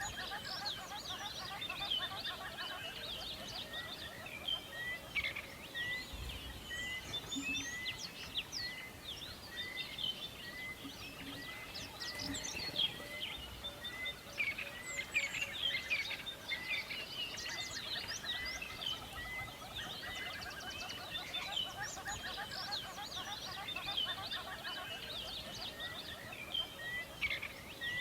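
A chorus of many songbirds chirping and singing over each other. One bird repeats a short note over and over, about one and a half times a second, through the first half and again near the end.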